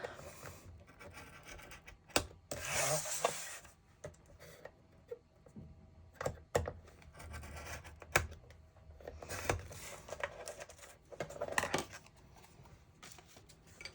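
Paper being scored on a scoring board: a few short scraping strokes with sharp taps between them as the paper and tool are handled.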